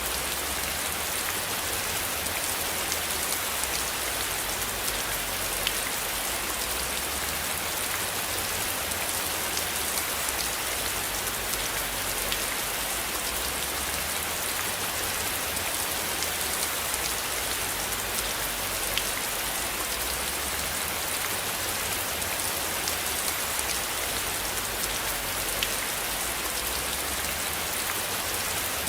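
Steady rain falling, an even hiss with many individual drops ticking through it, over a low rumble that swells and fades.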